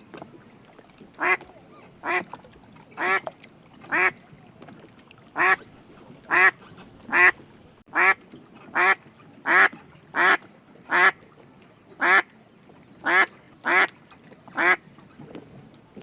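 A duck quacking repeatedly: about sixteen short, separate quacks, roughly one a second, coming a little faster in the middle.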